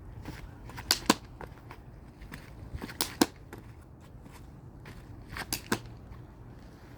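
Three front slap kicks, each a pair of sharp smacks a fraction of a second apart, the hand slapping the kicking foot, about two seconds between kicks.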